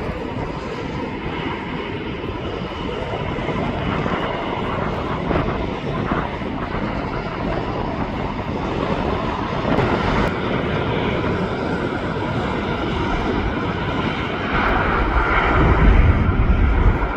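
Jet airliner engines running, a steady rush of noise that grows louder, with a deep rumble near the end.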